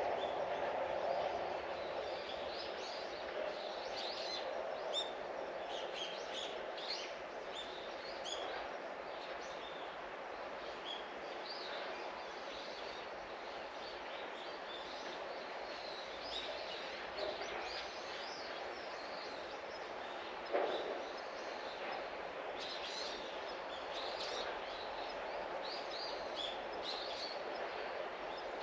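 Small birds chirping repeatedly in short high calls over a steady outdoor background hum. One brief thud comes about two-thirds of the way through.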